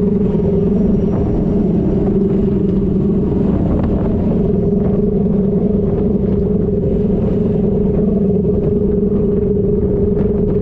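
Boat engine running steadily at raised throttle, holding an even pitch throughout.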